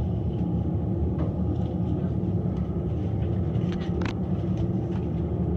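Steady low rumble inside a Sandia Peak Tramway aerial tram cabin travelling along its haul cable, with a brief click about four seconds in.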